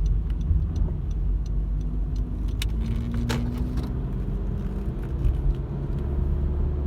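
Steady low rumble of engine and tyre noise inside a car driving on a highway. A few faint ticks, with a couple of sharper clicks near the middle.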